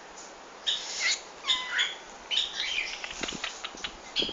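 Pet bird chirping in short high calls, one gliding downward, then a quick run of soft flutters and ticks in the second half: wing-flapping bathing behaviour in the air from a fan.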